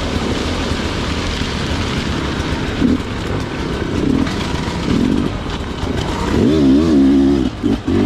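Sherco two-stroke dirt bike engine working through a hard technical section, with the throttle worked in short bursts. It is loudest a little over 6 seconds in, where the engine pitch wavers up and down for about a second, then drops off briefly.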